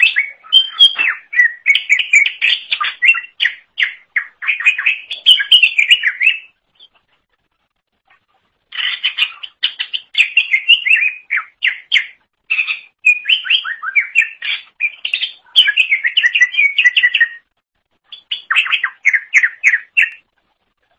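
Cucak ijo (green leafbird) singing in rapid, chattering, warbling phrases, broken by two pauses of a second or two.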